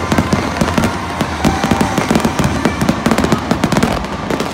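Fireworks crackling: a dense run of rapid overlapping pops from many falling crackle stars, with low thuds under them, thinning out near the end.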